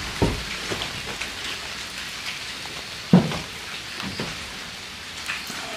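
Steady light rain falling, an even hiss of drizzle, with a short low thud about three seconds in and a fainter one about a second later.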